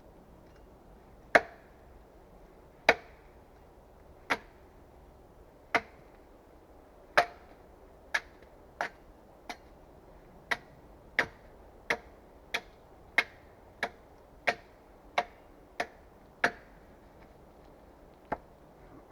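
Axe chopping wood: about nineteen sharp, separate strikes. They come about one every second and a half at first, then quicken to roughly three every two seconds after about ten seconds.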